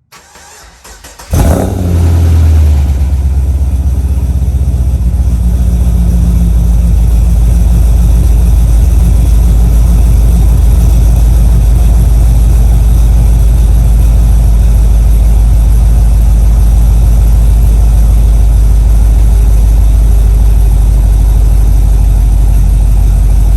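Car engine cranking on jumper cables for about a second, then catching and starting loudly, settling into a steady idle. The car had failed to start twice before and has a weak battery.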